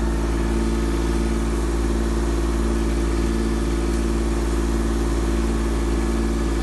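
Engine of a construction digging machine running steadily at constant speed, with a deep rumble and a level hum.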